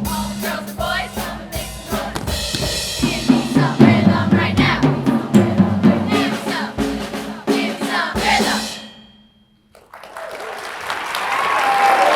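A choir singing with drum kit accompaniment, the song ending about three-quarters of the way in. After a moment's silence, applause starts and builds.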